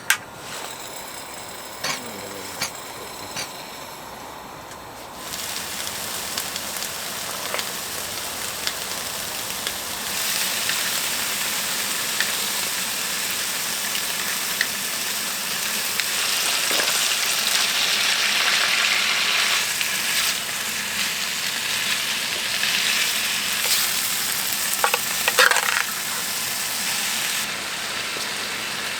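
Food frying in a hot pan, a dense sizzle that starts about five seconds in and grows louder a few seconds later. A few sharp clicks and scrapes come through it.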